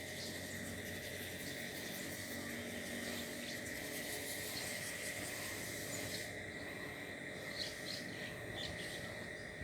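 Outdoor ambience: a steady insect drone, with a few short bird chirps in the second half.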